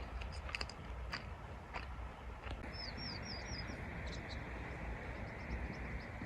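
Small birds chirping outdoors, including a quick run of four down-slurred notes about three seconds in, over a steady hiss. A few sharp clicks come in the first couple of seconds.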